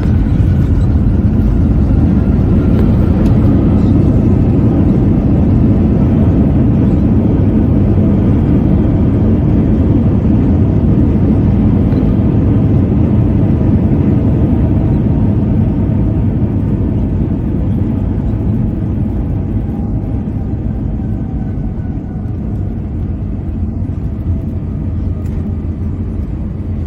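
Airbus A320 heard from inside the cabin during the landing rollout: a loud low rumble with engine tones slowly falling in pitch as the engines spool down, the noise easing over the last ten seconds.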